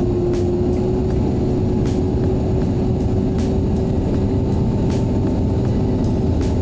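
Boeing 737 engines heard inside the passenger cabin: a steady, loud drone of low rumbling noise with a constant hum, which rises a little in pitch at the start and then holds.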